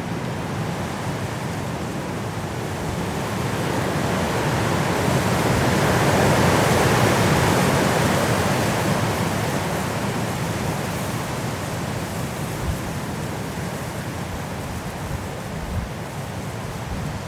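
High wind blowing through trees in a snowstorm, a steady rushing that swells into a strong gust about halfway through and then eases off.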